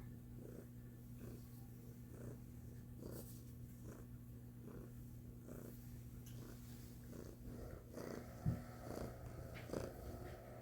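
A domestic cat purring steadily, the purr swelling with each breath about once a second. A short sharp thump about eight and a half seconds in is the loudest moment.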